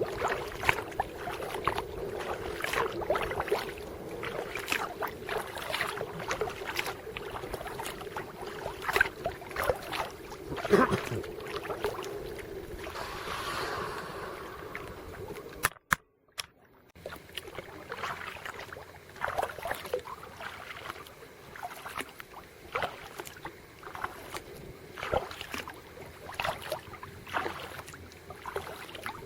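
Kayak paddling on open water: irregular paddle splashes and drips over water swishing along the hull. The sound cuts out briefly about halfway through.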